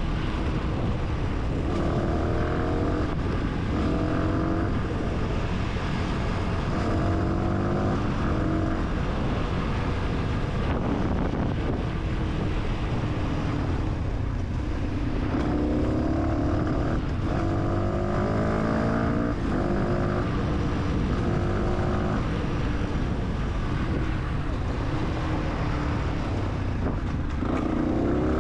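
Fantic 125 supermoto's single-cylinder engine pulling through the gears: its note climbs in pitch and drops back at each shift, several runs in a row, over steady wind and road rumble.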